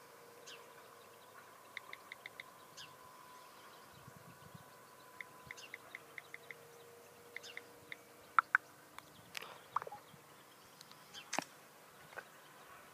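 Birds chirping against a quiet background: quick runs of four or five short high chirps, with two louder call notes about eight seconds in. A faint steady hum sits underneath, and there is a single sharp click near the end.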